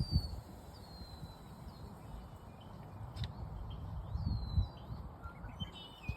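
Ducklings peeping: thin, high, falling chirps, scattered and repeated, over a gusty low rumble.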